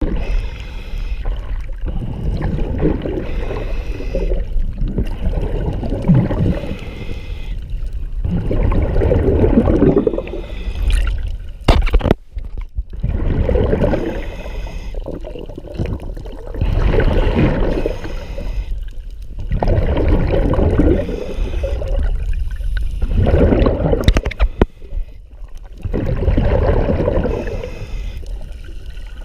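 Water rushing and splashing around a moving boat, swelling and easing in surges every few seconds.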